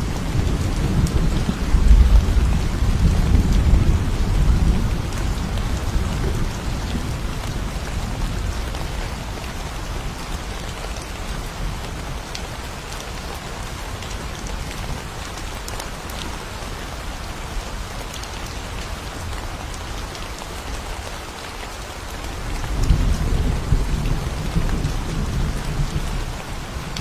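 Steady rain falling, with low rolling rumbles of thunder in the first few seconds and again near the end.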